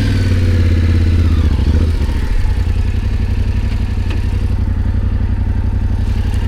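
Motorcycle engine revved up briefly then falling back, and from about two seconds in running at a steady idle.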